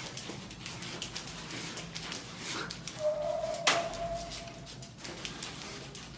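A dog whining: one long, steady, high whine of about a second and a half, starting about halfway through, with a sharp click in the middle of it.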